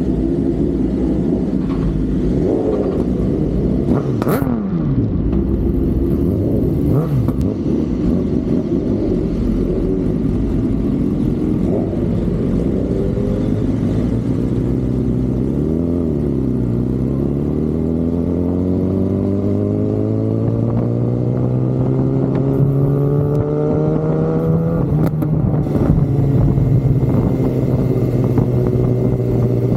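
Racing motorcycle engines: quick pass-by sweeps falling in pitch about four and seven seconds in, then an engine whose pitch rises steadily for about ten seconds as it accelerates, breaking off near the end.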